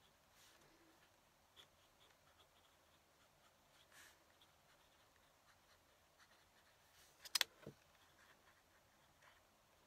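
Fountain pen nib scratching faintly on paper in short strokes. About seven seconds in there is a sharp double click, then a dull knock.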